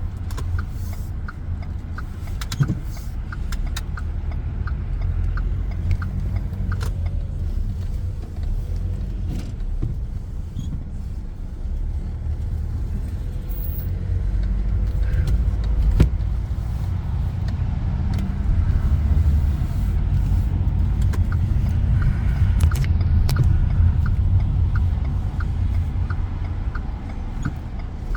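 Car cabin noise while driving: a steady low rumble from the engine and road. A regular light ticking, about two a second, runs through the first several seconds and comes back over the last several seconds.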